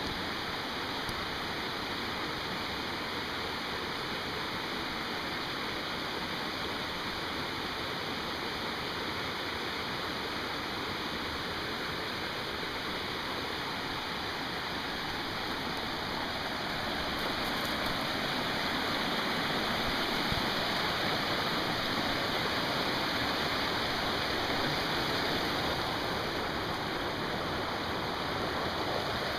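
Steady rush of flowing water from a stream or waterfall, growing a little louder about halfway through.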